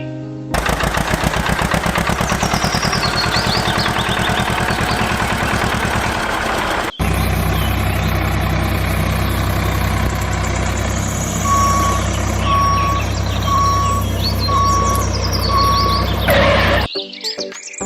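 A small vehicle engine running with a fast, rattling beat, then, after a cut, a steadier engine running while a reversing alarm beeps five times, about once a second, in the second half.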